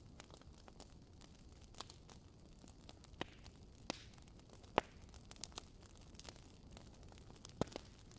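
Wood fire burning in a fireplace: sparse, irregular crackles and pops from the logs over a faint steady hiss, the sharpest pop a little before the middle.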